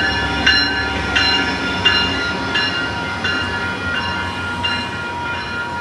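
A bell ringing in slow, even strokes, a little faster than one a second, fading out near the end, over the low rumble of an Amtrak train led by an SC44 locomotive.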